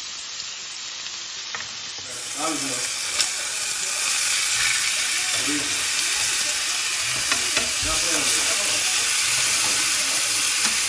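Seasoned chicken breasts sizzling in a hot skillet as they are turned with metal tongs; the sizzle grows louder about two seconds in, with a few sharp clicks of the tongs against the pan.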